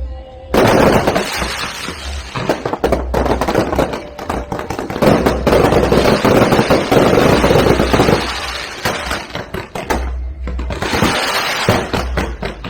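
Fireworks going off in a rapid, dense crackle of many small bangs. It starts suddenly about half a second in, eases briefly near the end, then picks up again.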